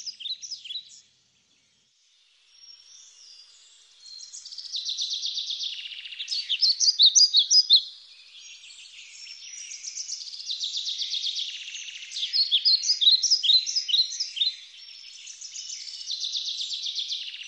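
Birds singing: rapid high chirps and trills, several overlapping, with a brief silent gap about a second in.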